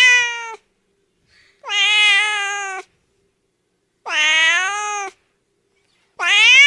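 Domestic cat meowing repeatedly: a short meow at the start, then two longer meows about two seconds apart, and another meow starting near the end. Each call rises in pitch and then falls away.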